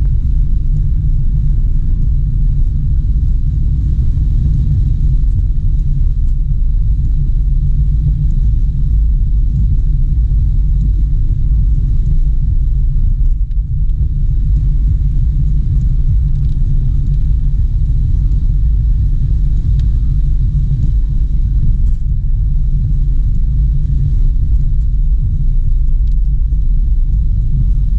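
Steady low rumble of a car on the move, road and running noise with little higher sound over it.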